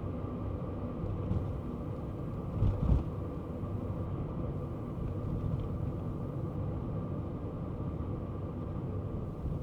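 Kei car driving: a steady low rumble of engine and road noise, with a short, loud low thump about three seconds in.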